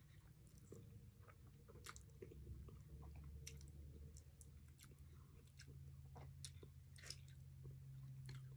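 Faint close-up chewing of a mouthful of palabok rice noodles, with scattered small wet mouth clicks and smacks over a steady low hum.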